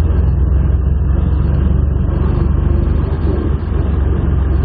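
Modified Jaguar E-type's engine, with high-lift cams, running at low revs while the car is driven slowly, a steady low drone heard from inside the car, with a brief dip in level about three and a half seconds in.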